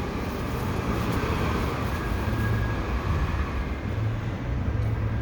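Steady rush of wind and road noise from a moving electric motorcycle, with a low wind rumble on the microphone and no engine sound.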